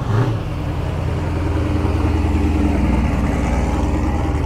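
A vehicle's engine running close by, a steady low rumble that grows a little louder over the first couple of seconds.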